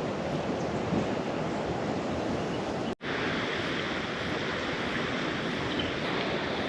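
Steady rush of waves and wind, with wind buffeting the microphone. The sound cuts out for an instant about three seconds in, then carries on.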